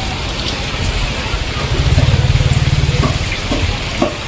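Heavy rain falling and water running on a flooded street. A low pulsing rumble rises in the middle for about a second, then a few short knocks near the end.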